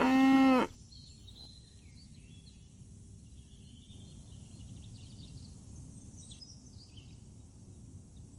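The tail of a cow's moo, a pitched call that cuts off less than a second in, followed by faint outdoor background with a few faint high chirps.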